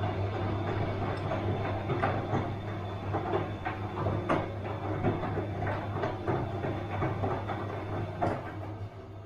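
Bosch washing machine running: a steady low motor hum with irregular knocks and swishes from the turning drum. The sound drops to a quieter level a little before the end.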